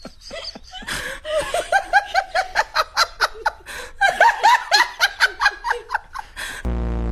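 Hearty laughter in two bouts of quick, short falling 'ha' syllables. A flat buzzing tone starts near the end.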